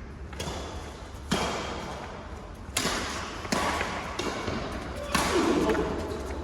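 Badminton rackets striking a shuttlecock back and forth in a rally: about five or six sharp hits, roughly a second apart, each echoing in a large hall.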